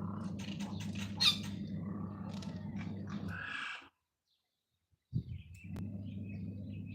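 Birds chirping and squawking in short calls over a steady low hum. The sound cuts out completely for about a second midway, then comes back with a thump and the chirping resumes.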